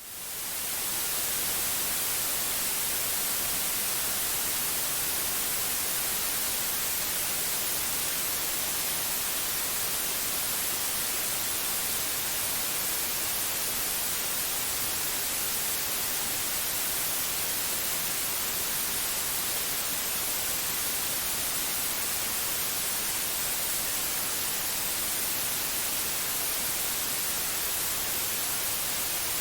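Steady white-noise hiss, fading in over the first second and then holding level, brightest in the highest treble.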